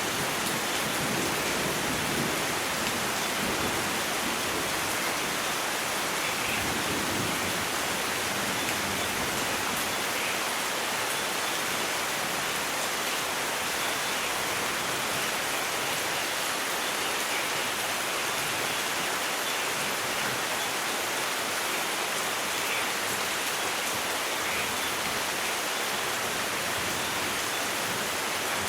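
Steady, dense rainfall hissing without a break, with the low rumble of thunder dying away in the first few seconds.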